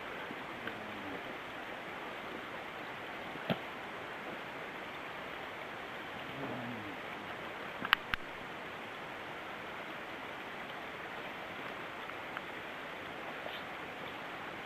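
Steady rushing of a mountain stream, with a few sharp clicks, the loudest about eight seconds in.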